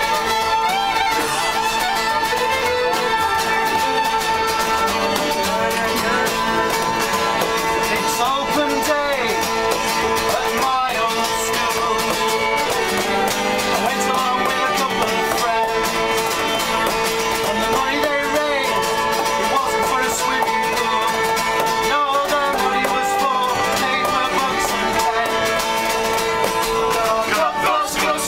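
Live folk music played on acoustic instruments: a tune running over a steady held note beneath it.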